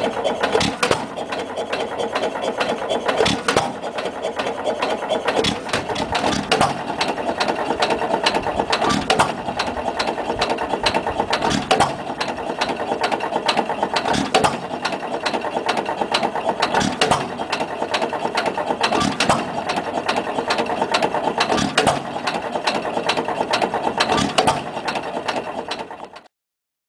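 1924 T. Eaton (Stover) 3 hp type KB single-cylinder hit-and-miss engine running at about 280 rpm, its moving parts clattering steadily. A sharp firing stroke comes about every two and a half seconds as it coasts between hits. The sound cuts off suddenly near the end.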